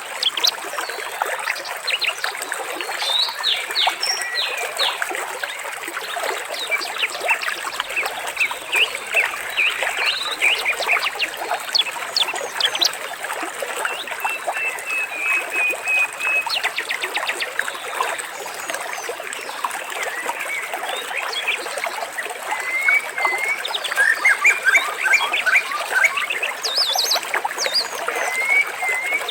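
Many small birds chirping and trilling over a steady trickle of water. The calls come thick and fast throughout, and grow denser and louder near the end.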